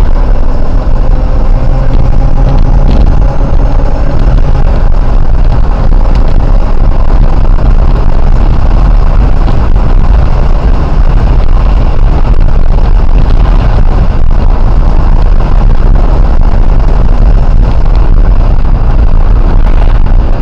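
Loud, steady engine and road noise of a police patrol car driving at speed during a pursuit, picked up by its dashboard recorder.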